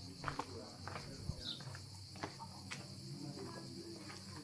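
A steady high-pitched insect chorus of crickets or cicadas, with scattered light clicks and taps and a couple of brief falling chirps.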